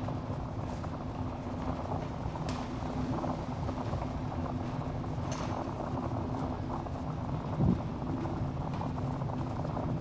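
Wood fire burning in a fireplace: a steady low rush of flames with scattered sharp crackles and pops from the burning logs. A single louder dull thump comes about three-quarters of the way through.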